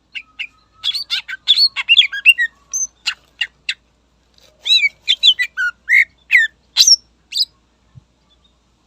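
Cucak ijo (greater green leafbird) singing vigorously: a rapid run of sharp chirps and whistled notes, many sliding downward, in two phrases of about three seconds each with a short pause between.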